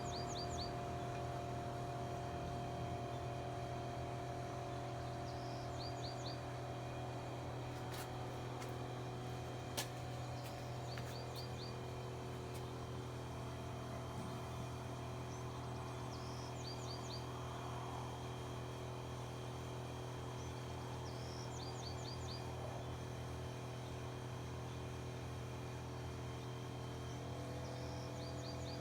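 Steady mechanical hum with a few held tones. Over it, a songbird repeats a short high phrase, one note then three quick ones, about every five or six seconds.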